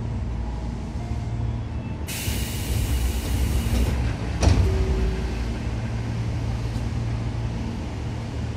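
Interior sound of a Tobu 9000 series electric train: a steady low drone, with a loud hiss of released compressed air about two seconds in that lasts about two seconds and cuts off suddenly. Half a second later comes a single sharp knock.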